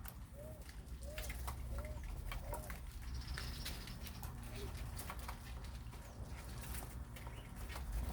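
Birds calling: a run of short, arched notes, about one every 0.6 seconds, that stops about two and a half seconds in, among scattered sharp clicks and a low steady hum.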